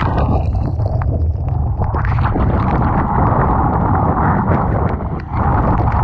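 Typhoon wind buffeting the microphone in a heavy, continuous low rumble, mixed with the rush of rough sea and crackling spray striking the camera. The sound dips briefly about five seconds in.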